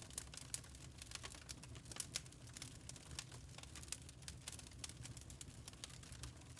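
Burning charcoal crackling: a dense, irregular run of small sharp pops and ticks over a low, steady rumble.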